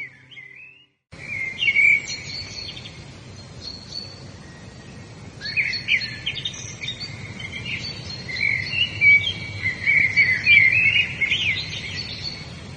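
Wild birds singing: many quick chirps and short trilled phrases over a steady outdoor ambience, busiest in the second half. Briefly cut to silence about a second in.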